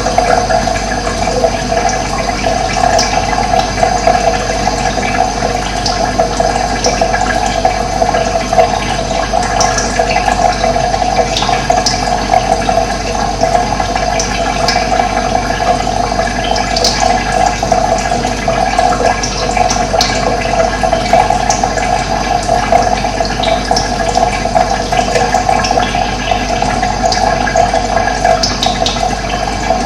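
Steady running water, with short high bird chirps now and then.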